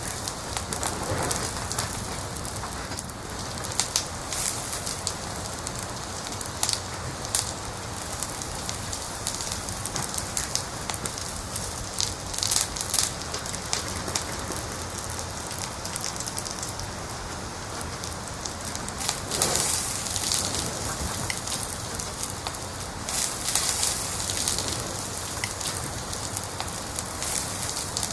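Wood fire crackling in a fireplace: a steady hiss of burning with frequent sharp pops and snaps, clustered more densely a few times.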